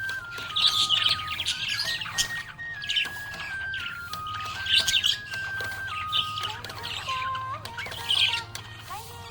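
Budgerigars chirping and warbling in short bursts about once a second, over a simple instrumental melody of steady held notes.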